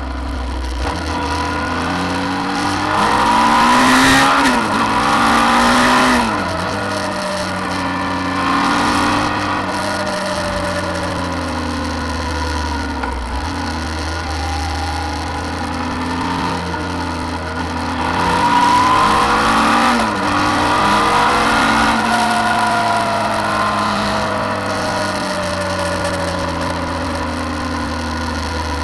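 Suzuki V-Strom 650 XT's V-twin engine running under way. Its pitch rises as it accelerates and falls back twice: first around two to six seconds in, and again around eighteen to twenty-two seconds in.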